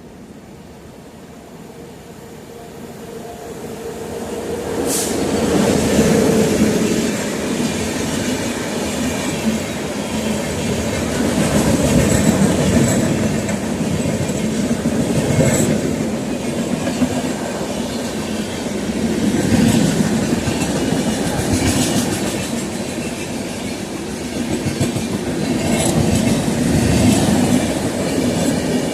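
An Indian Railways train coming closer and then rolling past, its wheels clacking over the rail joints. The sound builds over the first few seconds, then stays loud with slow swells and occasional sharp clicks.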